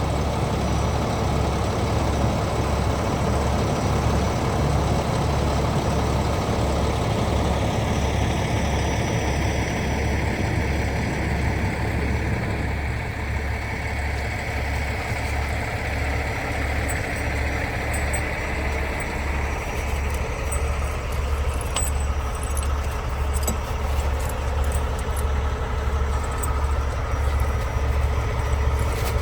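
Heavy diesel engine of a logging truck running with a steady low throb under a constant rumble of road and cab noise. Light rattling clicks come in over the second half.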